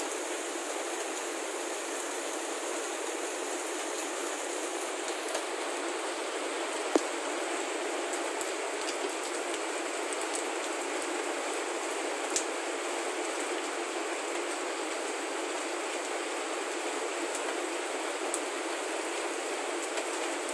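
Heavy rain falling steadily as an even hiss, with a few sharp ticks standing out, the loudest about seven seconds in and another about twelve seconds in.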